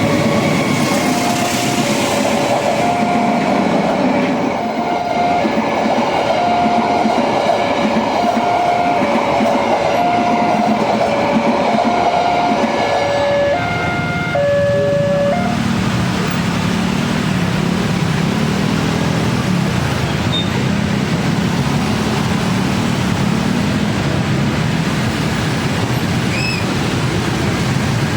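Railway level-crossing warning alarm sounding its two-tone alternating signal over the noise of a passing train. The alarm cuts off about fifteen seconds in, and the train keeps rumbling past.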